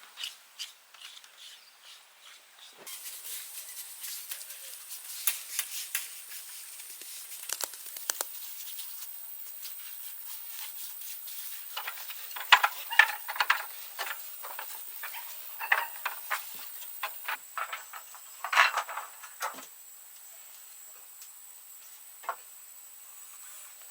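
Irregular taps, clicks and scrapes of hand work with tools and building materials, busiest and loudest around the middle, over a faint steady high hiss.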